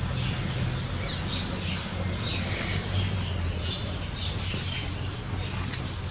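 Small birds chirping repeatedly, many short high calls, over a low steady rumble.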